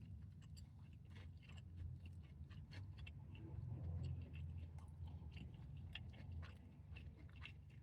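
A person chewing a mouthful of fried hot chicken sandwich close to the microphone, faint with many small wet mouth clicks, over a low steady hum.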